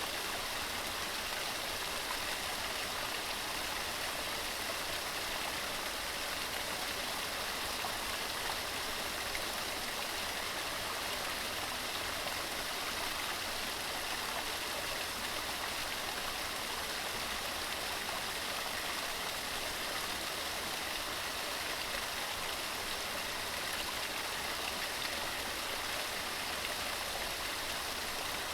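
Waterfall: water tumbling over mossy rocks, a steady rushing hiss with no change throughout.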